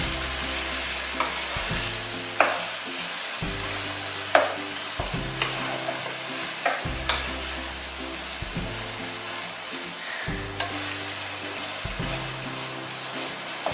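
Chickpeas and chicken masala sizzling in oil in a nonstick karahi, with a spoon scraping and knocking against the pan several times as they are stirred and fried (bhuna). Quiet background music runs underneath.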